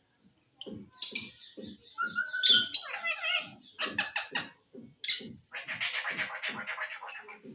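Pet green parrot calling: a run of short chirps and whistles, then a harsh, rapidly pulsing rasp in the last couple of seconds. Under it runs a low, regular beat about twice a second.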